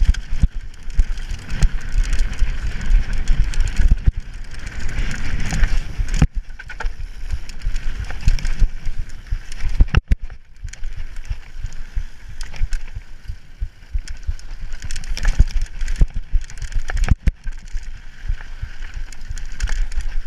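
Mountain bike being ridden down a dirt trail: continuous tyre and rattle noise with many sharp knocks and clatters from the bike going over bumps, and rumbling wind on the microphone.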